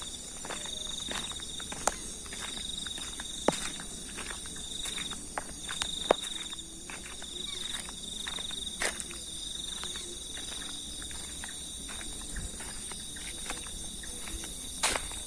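Night insects such as crickets chirring steadily in pulsing high trills, with frequent sharp clicks and knocks scattered throughout.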